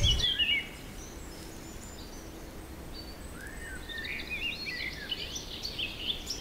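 Small birds chirping in short rising and falling calls: a few at the very start, then more and more often from about three seconds in, over a faint steady background hiss.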